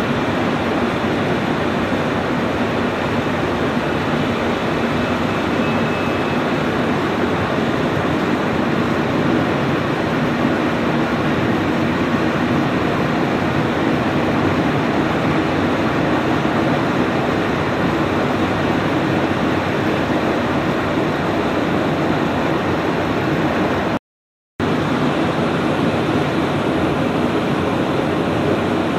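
Bush hammering machine working a marble surface, running with a loud, dense, even noise, broken by a half-second silence about 24 seconds in.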